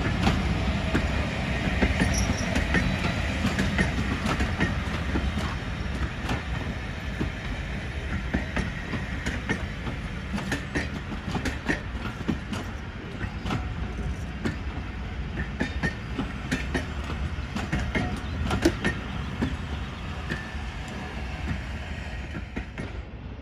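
A train of passenger coaches rolling past, the wheels clicking over rail joints, growing fainter as the train moves away.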